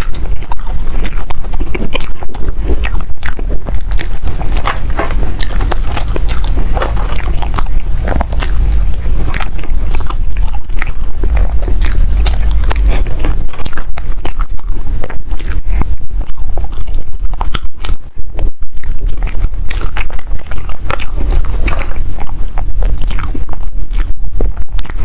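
Close-miked eating sounds: desserts being bitten and chewed, a continuous run of mouth clicks and smacks.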